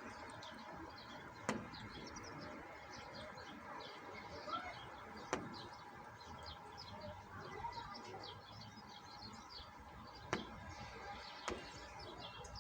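Small birds chirping and twittering over a steady patter of rain, with a few louder single drops landing close by, about four in all.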